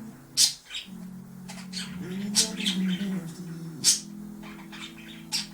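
Budgies chirping: a handful of short, sharp, high-pitched calls scattered through a few seconds, over a low steady background tone.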